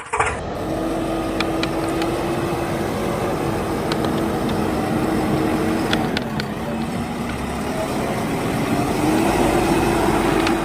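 Heavy diesel engine running steadily, with a droning tone that wavers and rises slightly near the end, and a few faint clicks.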